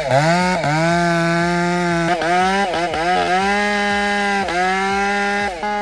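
A chainsaw engine running at high revs, its pitch dipping briefly a few times and then recovering.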